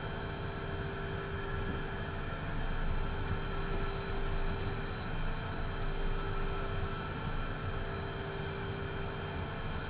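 Beechcraft Premier's twin Williams FJ44 turbofan engines idling steadily while the jet holds on the runway, a constant whine over a low rumble.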